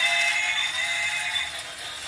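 Battery-powered plastic toy train playing an electronic sound effect through its small speaker, thin and high-pitched, which stops about one and a half seconds in. Under it, the toy's small gear motor runs with a steady rattle.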